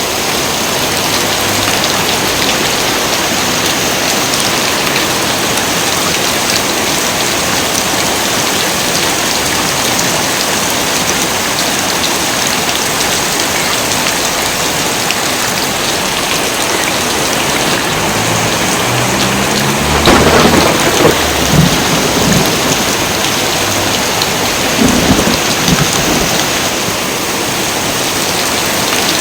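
Heavy rain falling steadily, with thunder rumbling about two-thirds of the way in and again a few seconds later.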